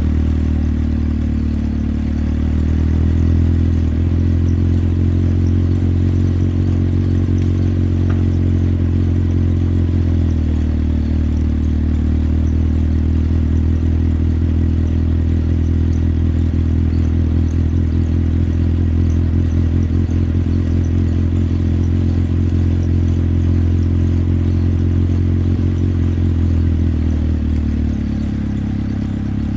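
Motorcycle engine running steadily while riding, its pitch shifting slightly a few times. The engine eases off near the end as the throttle closes.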